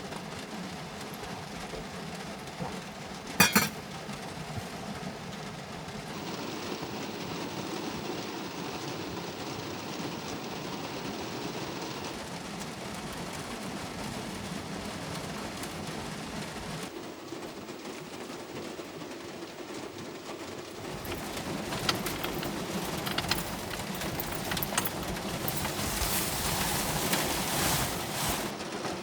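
Steady rain noise around the parked car, with a single sharp knock about three seconds in and light clinks of dishes or glass near the end.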